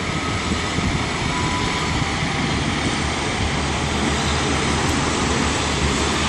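Train running in the station: a steady rumble that grows slightly louder.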